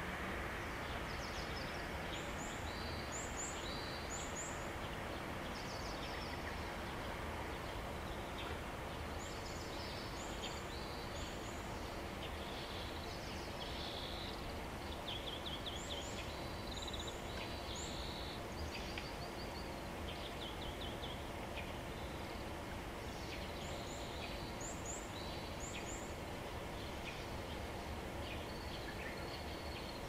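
Small wild birds chirping in short, high twittering phrases every second or so, over a steady outdoor background noise.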